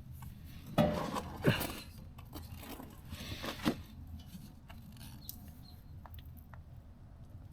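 Handling noises from work on the motorcycle's oil filter: short scraping rustles about a second in and again about three seconds in, then scattered light clicks and ticks.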